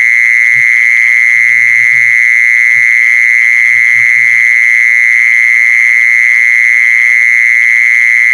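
An insect's call: a continuous, steady high-pitched buzzing trill that never breaks.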